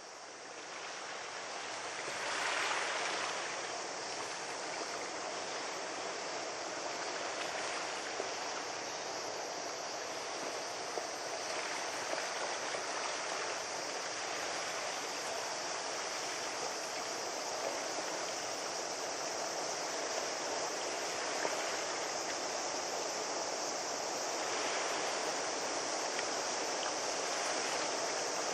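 Steady rushing of water, like waves or current washing along the shore, swelling a little about two seconds in.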